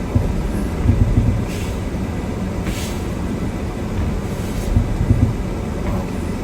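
Gusting storm wind buffeting a car, heard from inside the cabin as a low, uneven rumble that swells about a second in and again around five seconds.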